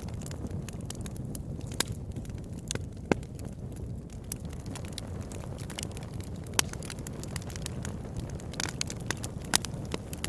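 Wood campfire burning with a steady low rumble, crackling and popping at irregular intervals, with a few louder sharp pops scattered through.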